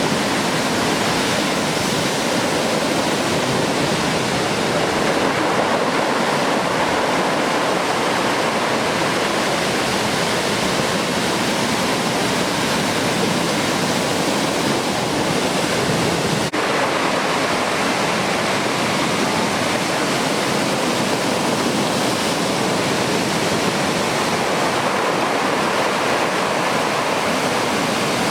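Steady rush of heavy ocean surf breaking: large typhoon swell closing out along the beach.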